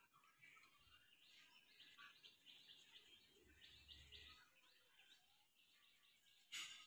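Near silence: faint outdoor ambience with a quick series of soft, high bird chirps, about four a second, and a short burst of noise near the end.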